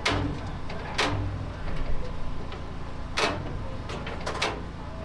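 A few sharp knocks and clacks, two of them close together near the end, over the low steady rumble of an idling locomotive.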